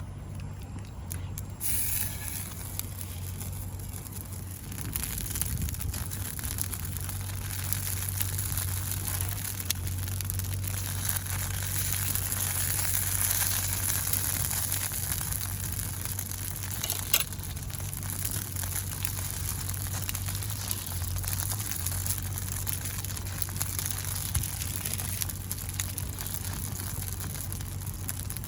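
Steady sizzling and crackling over a wood campfire: a dense hiss full of small pops, with one sharper snap about seventeen seconds in.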